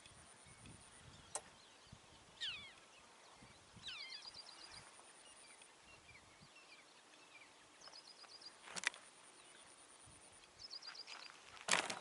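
Wild birds calling: a few short downward-sweeping calls and quick chattering trills, over a faint high-pitched pulsing trill that comes and goes. A few sharp clicks cut in, the loudest near the end.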